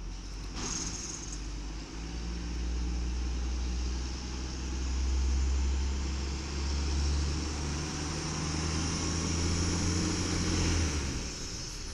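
1994 WhiteGMC garbage truck's LNG engine running. About two seconds in it speeds up into a steady, louder drone with a faint high whine, and near the end it settles back down.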